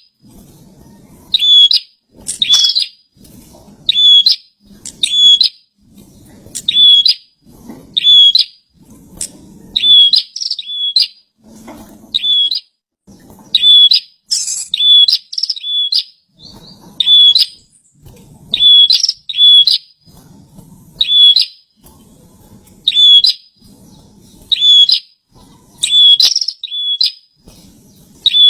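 Prenjak (a prinia) calling gacor: loud, sharp chirp phrases repeated about once every second or so without a break.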